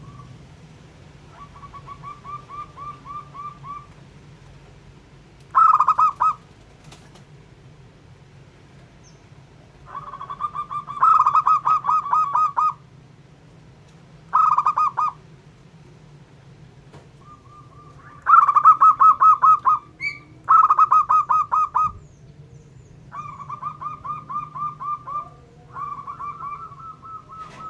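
Zebra doves (perkutut) cooing: a series of bouts of rapid, rattling pulsed notes at one pitch, each lasting one to two seconds, some loud and close and others fainter, with pauses in between.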